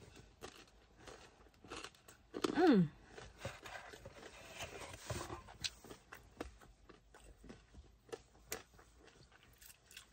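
A person chewing a crunchy folded pizza with her mouth shut: soft crunches and small clicks throughout. About two and a half seconds in she makes one short 'mmm' hum that falls in pitch.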